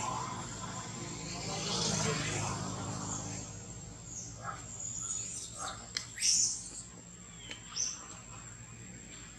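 Outdoor tree-canopy ambience: a few short, high bird chirps in the second half, over a steady thin high-pitched tone.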